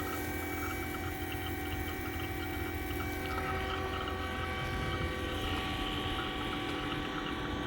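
Refrigeration vacuum pump running steadily while it evacuates a new air-conditioning system's refrigerant lines: a steady mechanical hum with several fixed tones over it.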